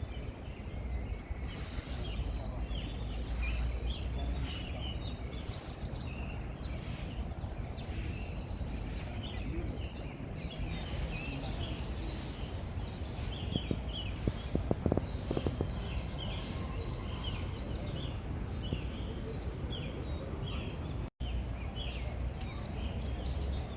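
Many small birds chirping and twittering in quick, overlapping calls, over a steady low background rumble.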